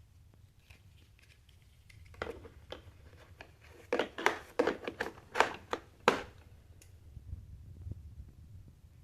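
Handling noise: a run of sharp clicks and crackles from about two to six and a half seconds in, over a low steady hum; no vacuum motor is running.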